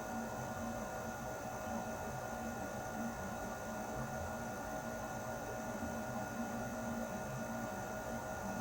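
Air conditioner running steadily: a constant hum with several fixed tones over an even airy hiss.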